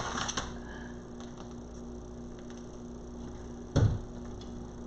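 Steady low electrical hum with light rustling from handling a wreath, and one dull thump a little under four seconds in.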